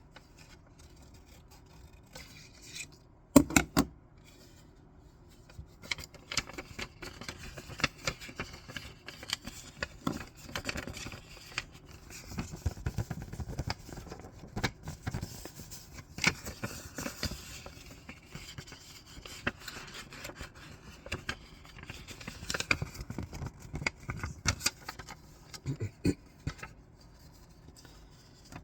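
Scissors cutting paper close to the microphone, with crisp snips and paper crinkling and rustling. A few loud sharp clicks come about three seconds in; steady, irregular cutting runs from about six seconds on.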